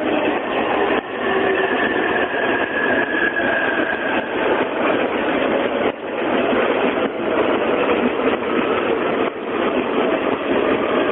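JR East E531 series electric train running at the station: a loud, steady rumble of wheels on the rails, with a faint high motor whine in the first few seconds.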